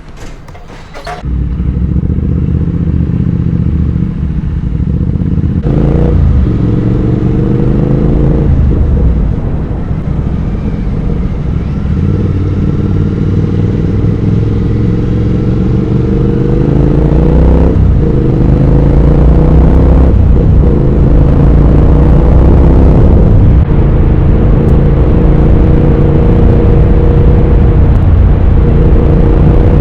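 Triumph Speed Twin 1200's 270-degree parallel-twin engine through its exhaust, pulling away and accelerating through the gears. The engine note climbs repeatedly, with brief dips at each gear change.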